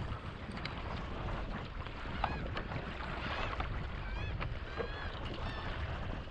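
Wind buffeting the microphone over open water, with seabirds calling several times, short rising-and-falling cries clustered after the middle.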